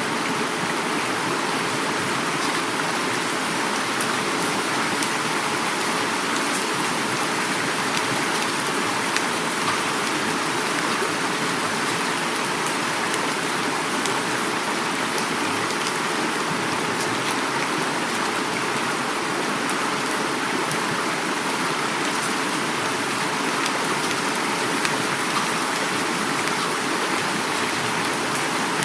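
Heavy rain falling steadily together with a flowing river, an even rushing wash of water sound with scattered sharp drop ticks.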